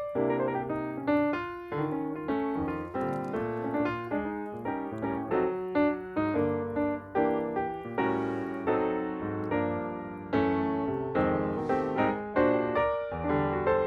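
Background piano music: a flowing melody of struck notes over low bass notes, with a faint hiss twice, about eight and twelve seconds in.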